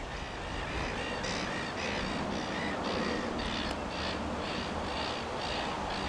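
A bird giving harsh, rasping calls in a fast, even series, about three a second, starting about half a second in and carrying on throughout.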